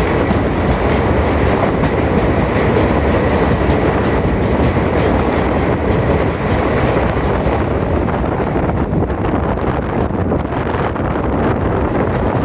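Train running on the rails: a steady, loud noise of wheels and carriage, with a few faint clicks.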